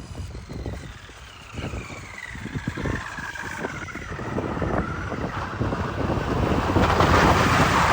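Traxxas RC car's electric motor whining and falling steadily in pitch as the car slows, with wind buffeting the microphone. Near the end a loud rushing hiss builds.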